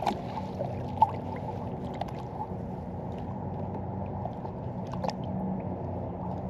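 Lake water lapping and gurgling against a kayak hull, with a low steady hum underneath and a few light knocks.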